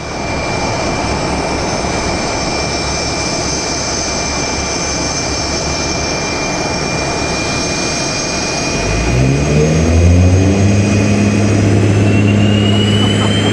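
CF-18 Hornet's twin General Electric F404 turbofan jet engines running, a loud rushing noise with a steady high whine. About nine seconds in a deeper hum rises in pitch and holds steady, and near the end the whine climbs in pitch as the engines spool up.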